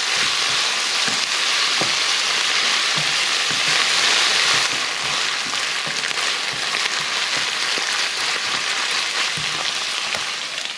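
Minced meat, bacon and onion sizzling in a frying pan, stirred with a wooden spatula that knocks and scrapes against the pan now and then. The sizzle is strongest a few seconds in and eases a little near the end.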